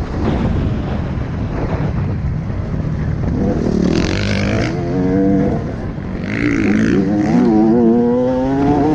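A 125 cc two-stroke enduro dirt bike engine revving hard on a motocross track, its pitch climbing twice as the throttle opens, the second climb long and steady.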